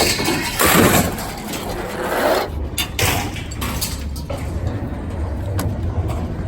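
Scrap metal scraping and clanking as it is dragged and tossed off a truck, with a few sharp knocks, over a low steady engine rumble that comes in about two and a half seconds in.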